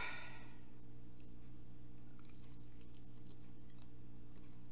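Faint biting and chewing on a barbecue chicken wing, with small wet clicks, over a steady low electrical hum.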